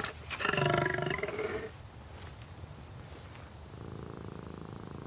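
A male lion roaring: one loud call lasting about a second and a half, then a quieter, steady low rumble.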